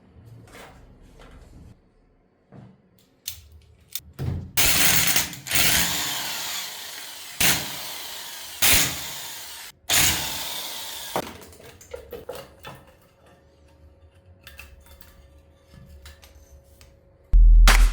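A power tool running in several bursts, the loudest stretch from about four to eleven seconds in, with light clicks and knocks of parts being handled before and after. A short, loud low thump comes just before the end.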